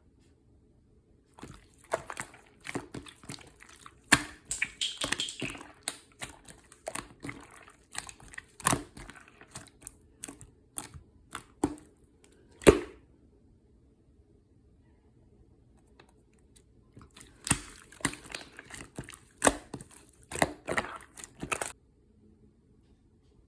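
Marbling slime being squeezed and pressed by hand, giving runs of quick sticky clicks and small pops with soft squishing. It stops for a few seconds past the middle, then starts again.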